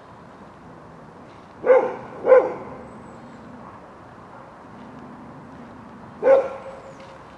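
Australian kelpie barking: two sharp barks in quick succession about one and a half seconds in, and a single bark near the end.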